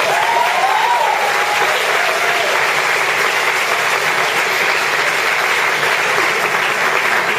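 Audience applauding steadily, with a voice calling out over the clapping in the first couple of seconds.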